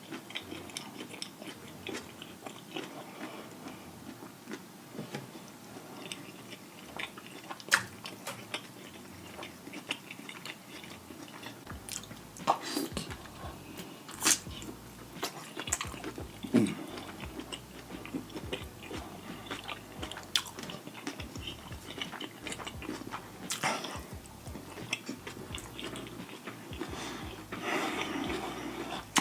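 Someone eating deshelled seafood boil: steady wet chewing and biting, with sharp mouth clicks and smacks scattered through.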